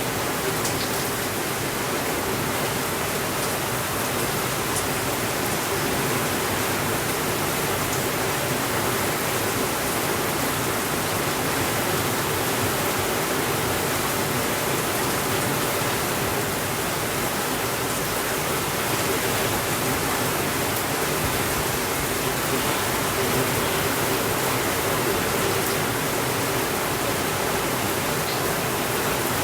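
Steady rainfall, an even unbroken hiss, with a few faint crackles of a fireplace in the first several seconds.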